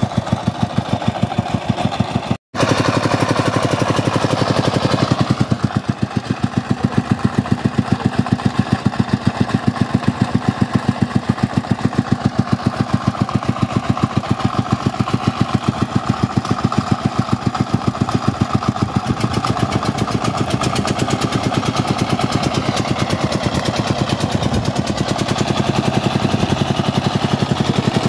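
Công nông's single-cylinder diesel engine running with a steady, rapid chug. The sound cuts out for an instant about two seconds in.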